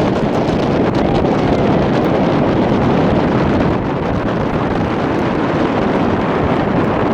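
Wind buffeting the microphone: a loud, steady rushing noise with no clear tone.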